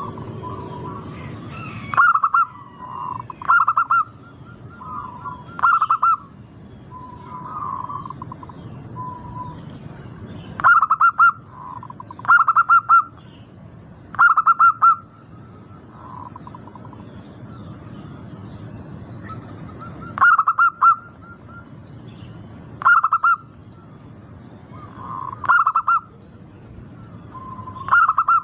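Zebra dove (perkutut) cooing: about ten short, loud phrases of rapid staccato notes, one every two to three seconds, with softer coos between them over a steady low background noise.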